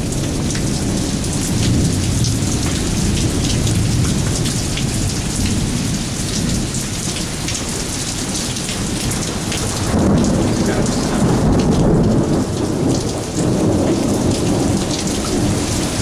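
Heavy rain pouring down and splashing on the ground and water. About ten seconds in, a low rumble swells for a few seconds.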